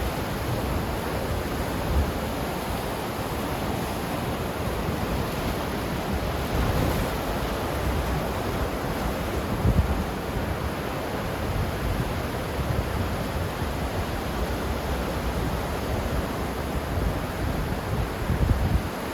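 Ocean surf: a steady wash of breaking waves that swells and ebbs gently, with a few heavier surges in the low end.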